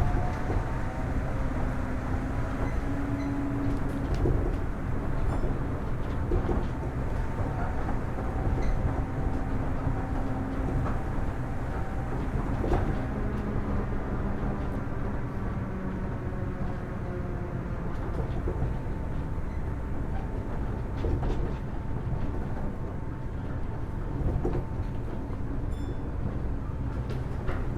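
Kitakyushu Monorail Series 1000 car running, heard from inside: a constant low rumble with the whine of its Hitachi IGBT-VVVF traction inverter and motors, several steady pitches that come and go. A few short knocks sound along the way.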